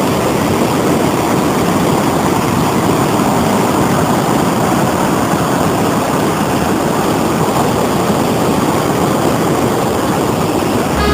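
Waterfall's falling water making a loud, steady rushing noise.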